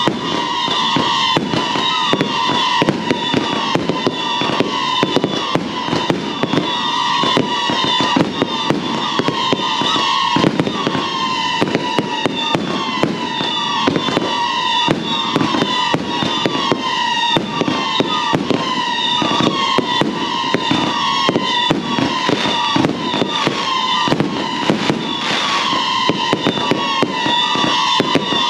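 2-inch multi-shot firework cakes firing continuously: a string of pops and bangs with repeated short falling whistles from the howling tails.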